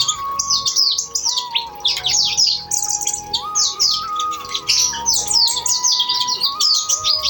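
Kolibri ninja sunbird singing in full song: a fast, unbroken stream of short, high, downward-sliding twittering notes, several a second.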